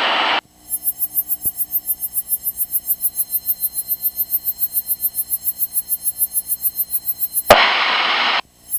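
Rapid pulsing electronic warning tone in the cockpit headset audio, about six beeps a second for several seconds, between short bursts of intercom hiss at the start and near the end.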